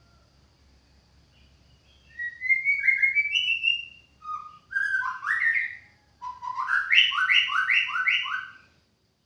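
White-rumped shama singing: rising, slurred whistled phrases starting about two seconds in, ending in a run of about five quick, repeated rising notes.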